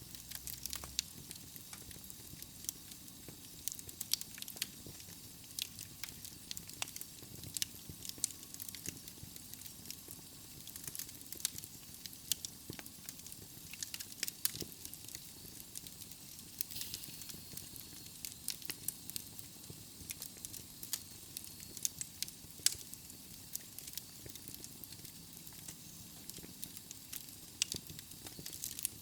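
Wood fire burning in a fireplace: a steady soft hiss with frequent irregular sharp crackles and pops from the logs.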